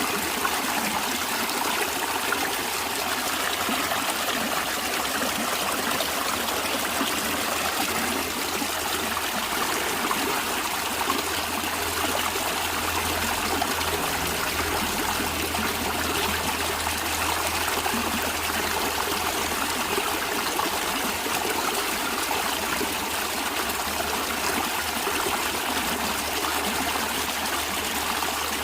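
Stream water running and trickling over stones, a steady, unbroken rush.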